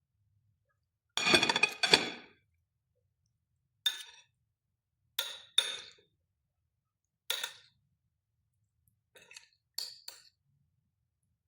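Kitchen clatter: a series of separate clinks and knocks of utensils against dishes and pans, the loudest and longest about a second in, followed by several shorter ones spaced a second or two apart.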